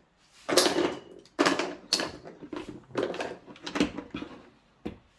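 Parts being handled on a workshop bench: a run of clattering and scraping handling noises, four or so in a row, with a short sharp click near the end.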